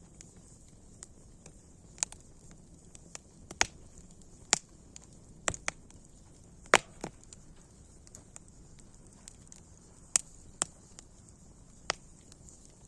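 Campfire crackling: irregular sharp pops of burning wood over a faint steady hiss, the loudest pop about halfway through.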